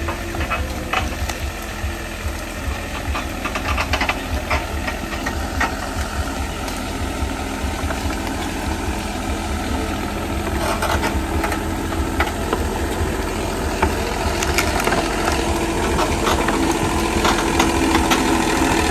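A motor running steadily, with scattered clicks and rattles over its low hum.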